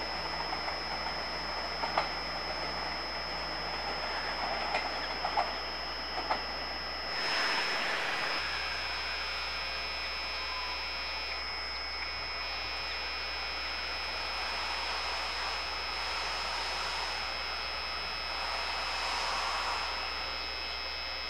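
Taiwan Railways electric multiple-unit trains on the line. First an EMU500 commuter train's wheels click over rail joints a few times. Then an EMU800 train approaches from a distance, its running noise growing faintly louder near the end, with a steady high whine over everything.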